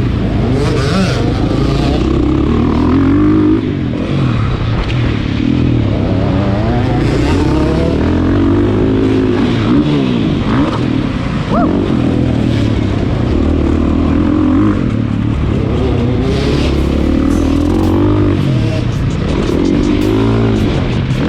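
Motocross dirt bike engine revving up and dropping back again and again as it is ridden hard, pitch rising and falling every second or two.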